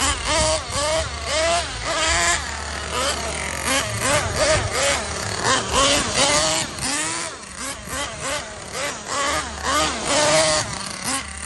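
Small nitro glow engine of a 1/8-scale RC car revved in quick repeated throttle blips, the pitch rising and falling about twice a second.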